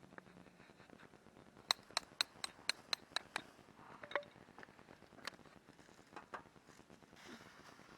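A quick run of about eight sharp, evenly spaced clicks, about four a second, followed by a few scattered clicks and knocks.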